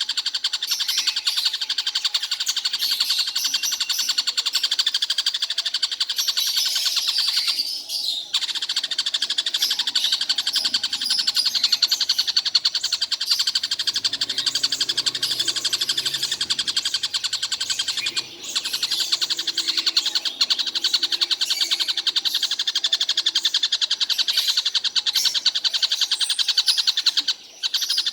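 Collared kingfisher (tengkek buto) calling nonstop, a fast unbroken rattling chatter that breaks off briefly about 8, 18 and 27 seconds in.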